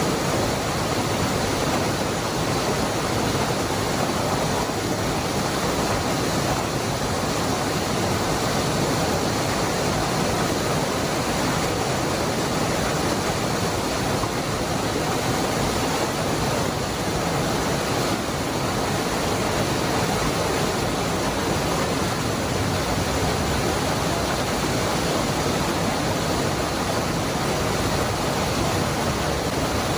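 Waterfall: the steady, dense rush of water falling and churning, with no change in level and no other sound.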